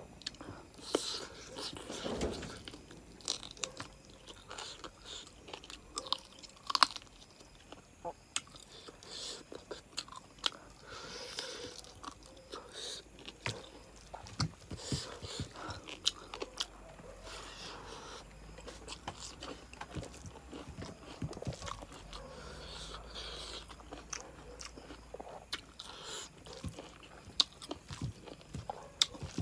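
Close-up eating sounds of rice and chicken curry eaten by hand: chewing with irregular wet smacks and clicks.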